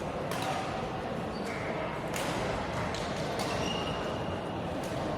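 Badminton rally in a sports hall: several sharp racket hits on the shuttlecock about a second apart, with brief shoe squeaks on the court floor, over steady hall background noise.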